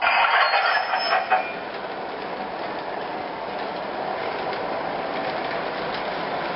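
MTH R-36 World's Fair subway model train running on O-gauge track, its wheels and onboard sound system giving a steady clattering rail noise. It opens with a louder burst for about the first second and a half.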